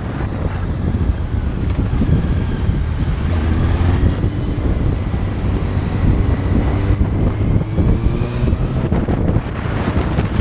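Wind buffeting the microphone over a motorcycle engine running at road speed, the engine note rising and falling a few times.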